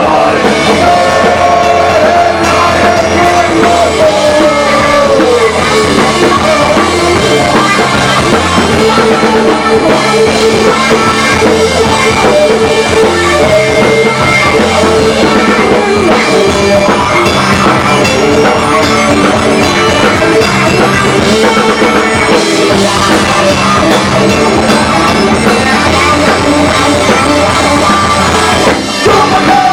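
Live rock band playing loud and steady, with distorted electric guitar, bass and drum kit; a guitar line slides down in pitch in the first few seconds.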